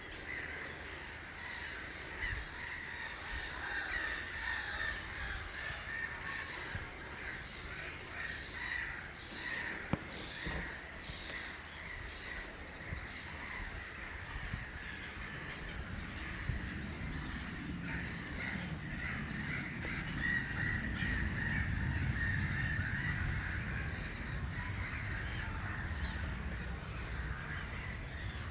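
A flock of marsh birds calling over one another, many short harsh calls overlapping without a break. A low rumble builds up underneath in the second half.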